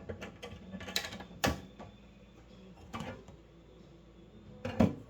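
Scattered sharp clicks and metal knocks from handling a battery box made from an old boat gas tank, about five in all, the loudest about a second and a half in and near the end.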